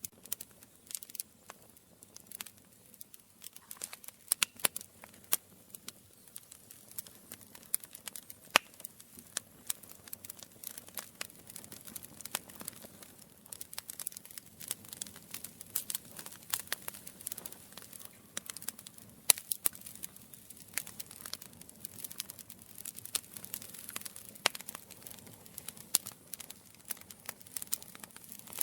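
Campfire burning, wood crackling and popping in irregular sharp snaps over a soft hiss of flame.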